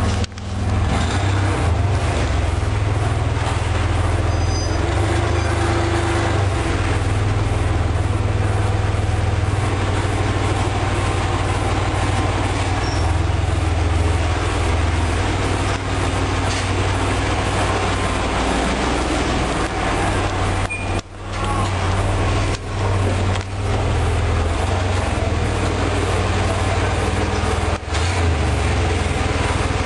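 Chevy Astro's 4.3-litre V6 engine idling steadily, warming up after a cold start following three weeks of sitting. The sound drops out briefly a few times in the second half.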